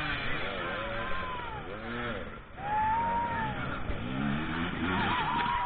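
Several dirt bike engines revving up and down, overlapping, with short throttle blips and one longer rising-then-falling rev just after a brief lull about halfway through.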